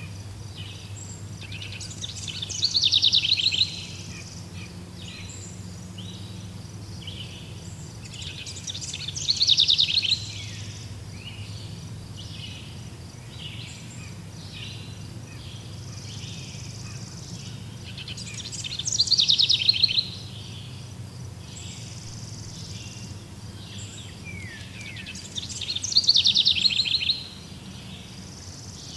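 Wild birds singing in a forest. One bird repeats a loud, rapid trilled phrase four times, about every seven seconds, over a steady chorus of shorter chirps from other birds and a low steady hum.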